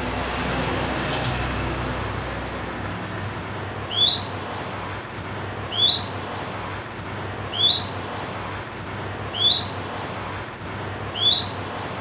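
A caged bird giving a short, upward-sweeping chirp, repeated five times about every two seconds from about four seconds in, over a steady background hiss.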